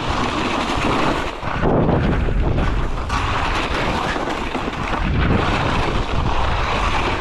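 Wind rushing over the microphone and ski edges scraping and chattering over icy snow during a downhill ski run.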